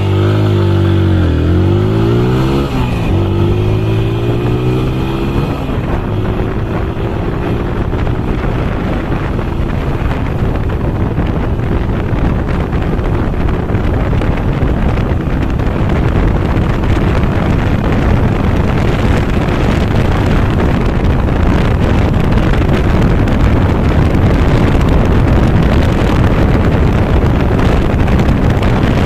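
TVS Apache RTR 160 4V's single-cylinder engine at full throttle on a 0–100 km/h run from standstill, the pitch climbing and dropping at quick gear changes about two and a half and five and a half seconds in. After that the engine note steadies and rises slowly while wind rushing over the microphone grows with speed.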